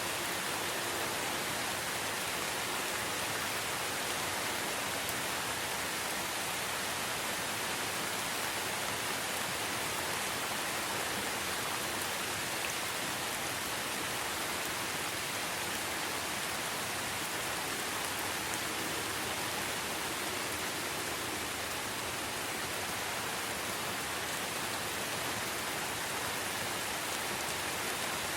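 Steady rain falling in a forest, an even hiss of many drops with no single drop standing out.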